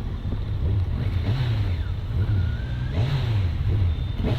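Motor vehicle engine running, its low drone rising and falling in pitch as the throttle changes.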